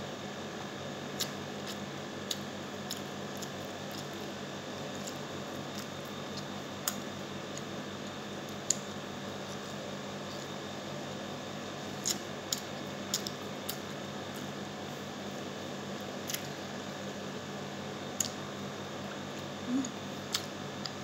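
Eating by hand: chewing with scattered short, sharp mouth clicks and finger-on-plate ticks, about a dozen in all, over a steady room hum.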